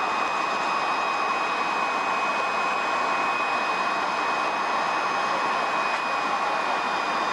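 Steady flight-deck noise of a Boeing 737-200 on approach: an even rush of airflow and engine noise with a thin, steady high whine over it.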